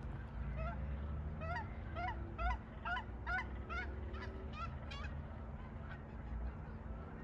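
Waterfowl honking: a run of about ten quick, repeated honks over the first five seconds, then easing off, over a steady low rumble.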